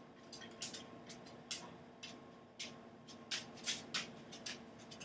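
Faint, irregular light clicks and taps, roughly two a second, over a steady low hum.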